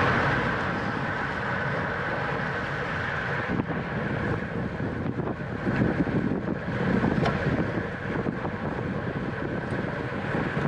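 Wind rushing over the microphone of a camera riding along in a bicycle race, a steady rush of noise with a few sharp knocks and clicks from the bike.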